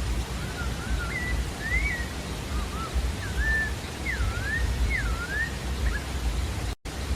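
Pale-breasted thrush (sabiá-da-várzea) singing a run of short whistled notes that slide up and down, over a steady rushing background noise. The sound cuts out for a moment near the end.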